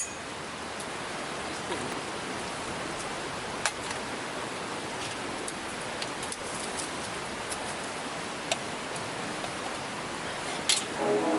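Steady rain falling, with a few sharp drip-like taps scattered through it.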